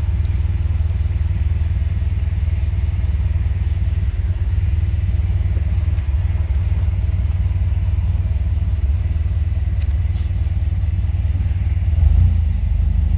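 1969 Alfa Romeo 1600 Duetto Spider's twin-cam four-cylinder engine idling steadily just after a cold start, with a little choke on. It gets slightly louder near the end.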